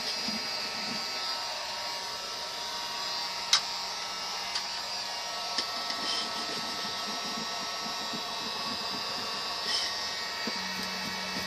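Hot-air blower running steadily with a constant whirring fan, with a few light clicks on top, the sharpest about a third of the way in.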